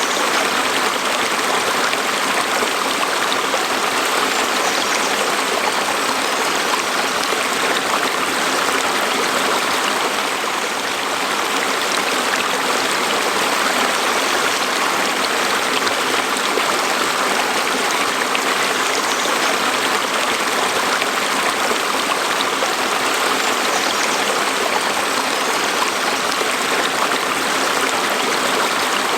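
Stream water flowing and splashing over rocks in a steady, continuous rush.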